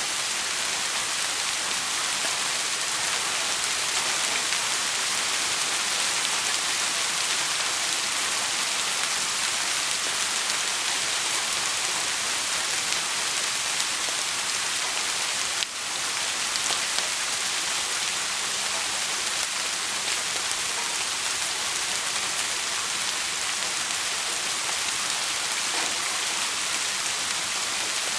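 Steady, even hiss of heavy rainfall, with a brief dip in level a little past the middle.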